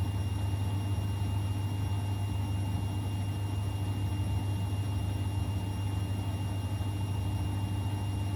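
Siemens Extraklasse XLS 140 A washing machine running mid-cycle on a 90 °C boilwash: a steady low hum with a faint thin whine above it.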